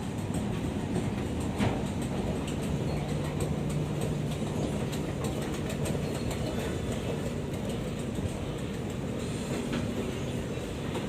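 Sydney Metro train running, a steady rumble with a low hum for a few seconds near the middle and a few faint clicks.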